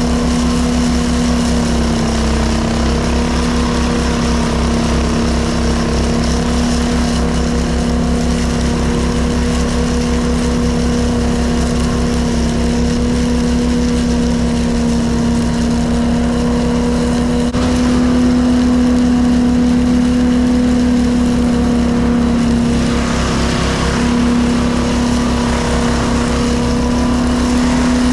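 Engine of a straw blower running steadily at a constant speed, with a slight rise in pitch and loudness about two-thirds of the way through.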